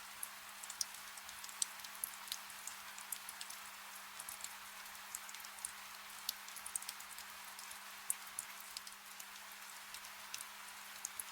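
Soft rain: a steady hiss with frequent, irregularly spaced sharp drop taps.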